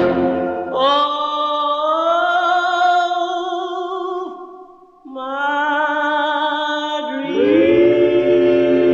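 Doo-wop vocal group singing in close harmony, holding two long chords with vibrato and a brief break between them about halfway through. A fuller backing comes in near the end.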